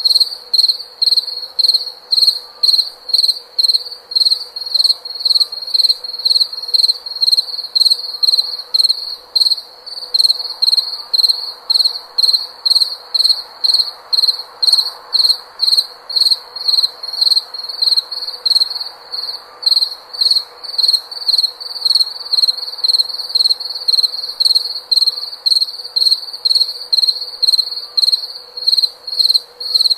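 A cricket chirping in an even rhythm, about two high-pitched chirps a second, with a faint steady hum underneath.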